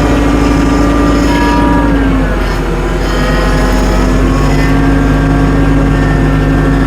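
Tractor engine running as it drives, its pitch dipping about two seconds in and rising back about four seconds in.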